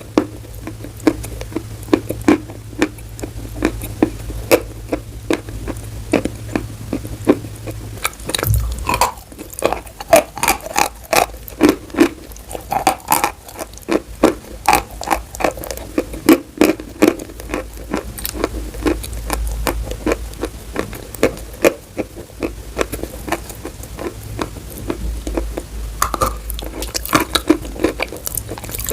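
Chalk being bitten and chewed close to the microphone: repeated sharp, irregular crunches, about two a second.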